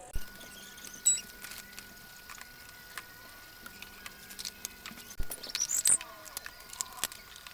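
Plastic containers and packets handled while a fridge is being restocked: scattered small clicks, taps and rustles, with a quick rising squeak about five and a half seconds in, over a faint steady tone.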